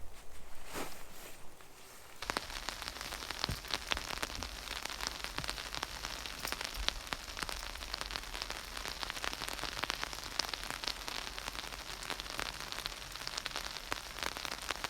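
Steady rain pattering, dense with small sharp drop ticks, starting suddenly about two seconds in.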